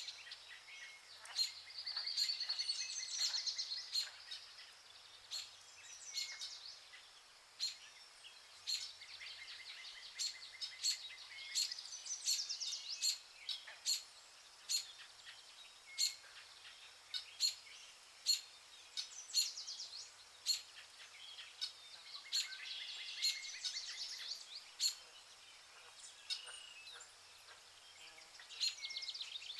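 Rainforest birds calling: short, sharp high chirps about once a second over high, rapid trills that swell and fade every few seconds.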